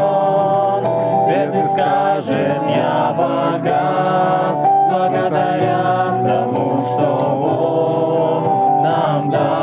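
A group of voices singing a Russian Christian worship song, a hymn of praise, with acoustic guitar accompaniment.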